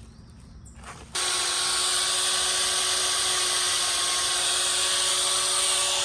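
A steady electric-motor whir with a strong hiss starts abruptly about a second in and runs on evenly at one pitch.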